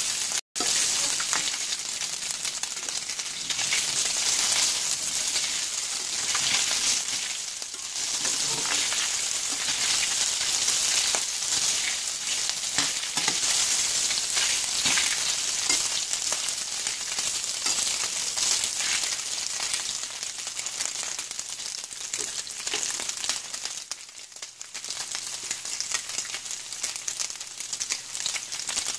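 Meatballs sizzling as they fry in butter in a stainless steel skillet, with a steady hiss full of small crackles, while a spatula turns them now and then. The sound drops out for an instant about half a second in.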